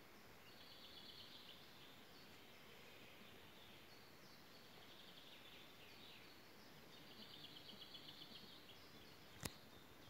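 Faint songbird twittering: three phrases of rapid, high chirps over a quiet hiss. A single sharp click near the end.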